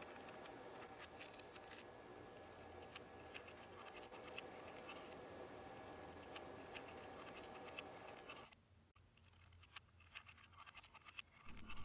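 Near silence: faint room tone with scattered small clicks and scratchy ticks. The background hum cuts out suddenly about two-thirds of the way through, and the faint clicks carry on.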